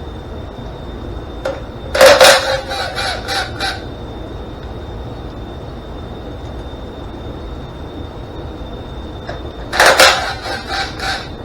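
Two bursts of loud honking bird calls, each a quick run of several notes, about eight seconds apart, over a faint steady high-pitched whine.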